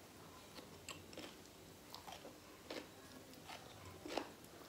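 Close-miked chewing of raw shredded carrot: faint, crisp crunches about two a second, the loudest about four seconds in.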